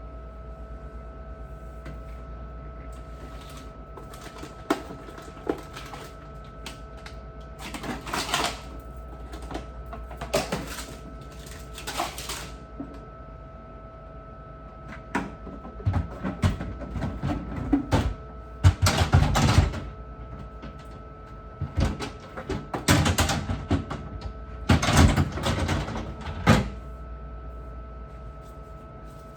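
Irregular knocks, clatter and rubbing of things being handled during refrigerator cleaning, in short bursts that come thickest in the second half. A steady faint hum lies underneath.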